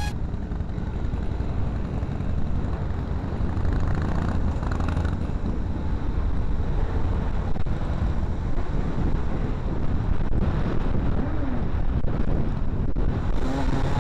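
Motorcycle on the move: a steady low engine rumble under heavy wind buffeting on the microphone.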